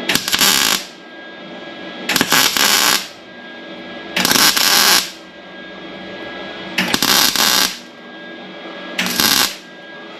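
Welding arc crackling in five short bursts of under a second each, about two seconds apart: stitch welds laid a little at a time to join a replacement cab corner panel into the cab's sheet metal without overheating it.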